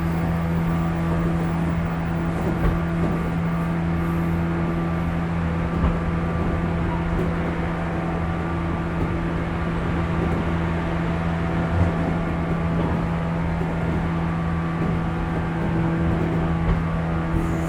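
JR 415 series electric multiple unit running at a steady speed, heard inside the motor car: a steady hum over the rumble of the wheels on the rails, with a few light knocks.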